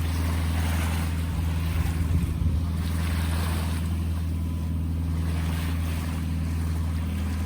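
A sailboat's engine running steadily under way, a constant low drone, with the hiss of water and wind along the hull.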